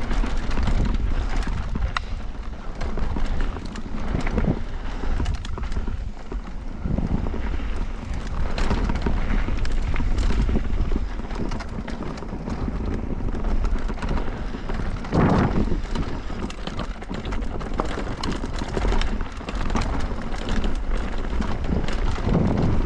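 Electric mountain bike riding down a rough dirt trail: tyres rolling over rocks and roots, with the bike knocking and rattling over the bumps and wind buffeting the microphone.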